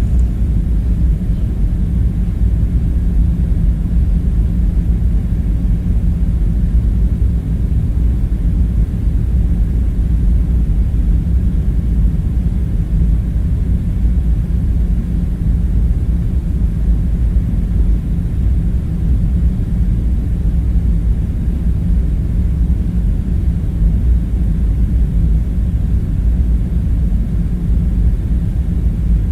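Steady low rumbling drone, an unbroken ambient hum with nothing sudden in it.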